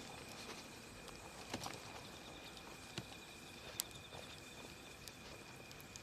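Wood campfire burning faintly, crackling with a few sharp pops, the clearest about a second and a half, three, and nearly four seconds in. A thin steady high tone runs underneath.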